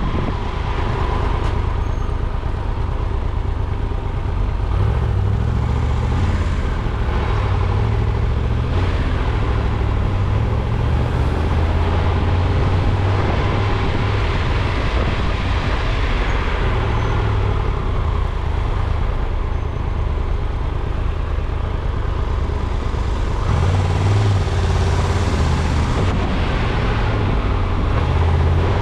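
Steady low rumble of a moving road vehicle: engine and road noise running on evenly, with no marked changes.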